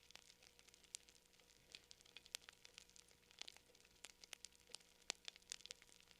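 Faint campfire crackling: irregular sharp snaps and pops, several a second, over a soft hiss.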